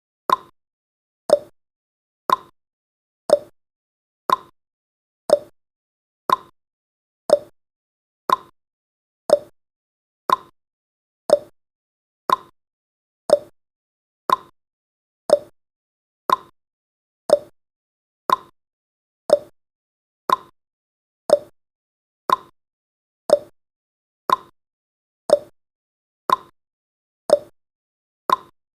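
Clock-tick sound effect of a countdown timer, one sharp tick each second, alternating between a higher and a lower tick in a steady tick-tock.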